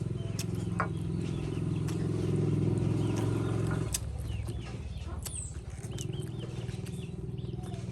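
A steady low engine hum that swells for a couple of seconds and eases off about four seconds in, with faint high chirps and scattered light clicks over it.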